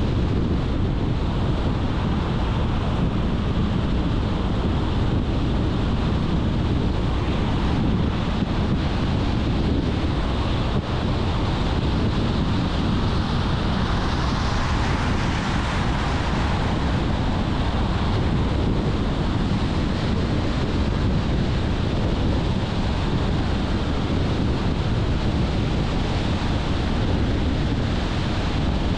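Steady road noise from a car driving at speed: tyre rumble and wind, heaviest in the low end, with a swell of hiss about halfway through.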